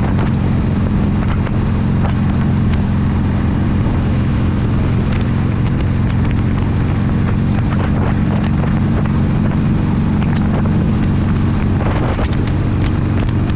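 Harley-Davidson motorcycle's V-twin engine running at a steady, unchanging speed while riding, with wind on the microphone.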